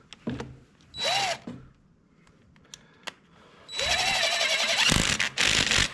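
Power drill running a long screw in: a short spin-up about a second in, then a longer run from about four seconds in, with a brief stop near the end.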